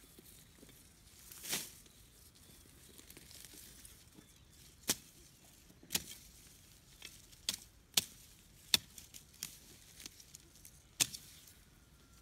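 A series of about nine sharp, short knocks at irregular intervals, with a softer rustling swell about a second and a half in.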